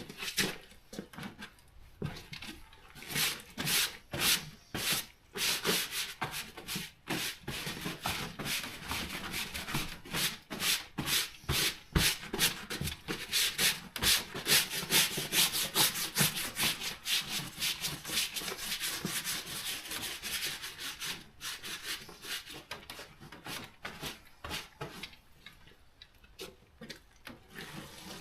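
Rubbing on a surface in quick, repeated back-and-forth strokes, getting faster and denser toward the middle and easing off near the end.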